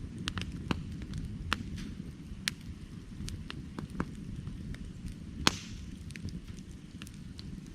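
Firewood burning: a steady low rumble of flames with irregular sharp crackles and pops from the wood, one louder pop about five and a half seconds in.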